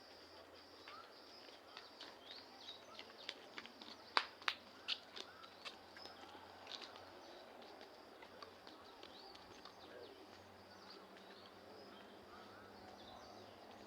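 Faint dusk ambience: insects chirring steadily at a high pitch, with scattered bird chirps. A quick run of sharp clicks comes between about three and six seconds in.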